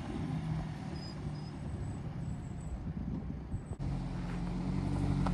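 A car engine idling steadily. There is a sharp click a little past two-thirds through, after which the idle is louder.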